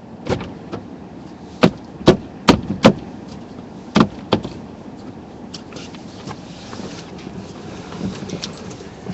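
A series of about eight sharp knocks, in pairs and singles over the first few seconds, over the low steady rumble of a car, followed by a few faint clicks.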